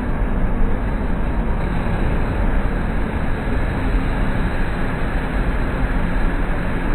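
Steady loud rush of water pouring, as from a waterfall or rapids, an even hiss-and-roar that doesn't change.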